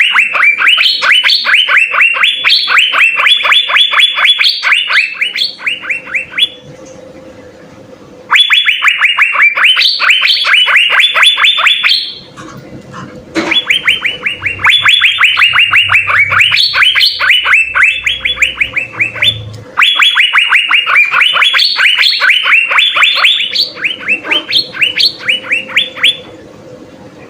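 Asian fairy-bluebirds (cucak biru) singing a rapid chatter of sharp repeated notes, about five a second, in four long runs with brief pauses between them.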